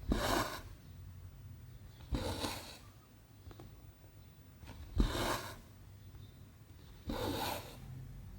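Cotton embroidery thread pulled through 14-count cross-stitch canvas, four times. Each pull is a short swish of about half a second, starting with a small needle click, a couple of seconds apart.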